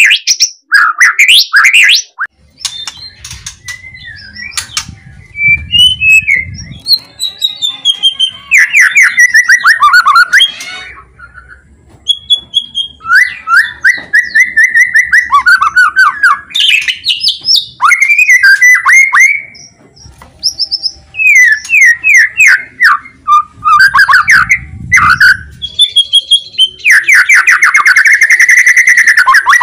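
White-rumped shama singing loudly: fast, varied bursts of whistles, pitch glides and trills with short pauses between them, and a dense run of rapid repeated notes near the end.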